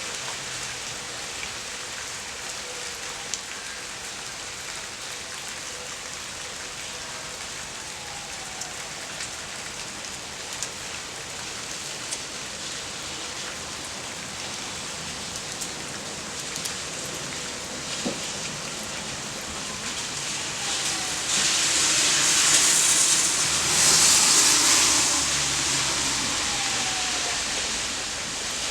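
Steady rain falling, with scattered drips ticking close by. About three-quarters of the way through, a louder rushing noise swells for several seconds and then fades.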